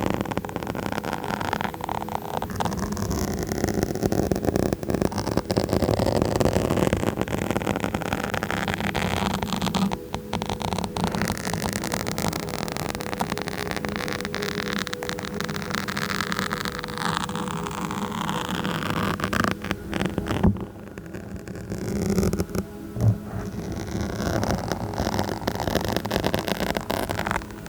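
A microphone being scratched directly and close up: a dense, continuous scratchy rustle full of tiny crackles. It lets up briefly about ten seconds in and again about twenty seconds in, with a couple of sharper knocks soon after.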